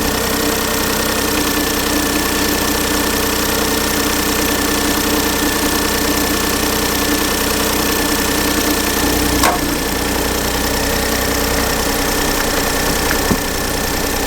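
A 2008 Smart ForTwo's 1-litre three-cylinder engine idles steadily, with two brief clicks in the last few seconds. At idle the dead-cylinder misfire does not show; it shows only under load.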